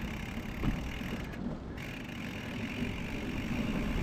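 Wind rumbling over the microphone of a bicycle getting under way, building steadily as the bike picks up speed.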